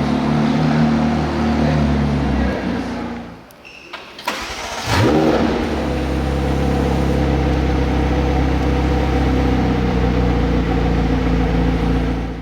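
McLaren 765LT's 4.0-litre twin-turbocharged V8 running, cutting out about two and a half seconds in, then starting again about five seconds in with a flare of revs before settling to a steady idle.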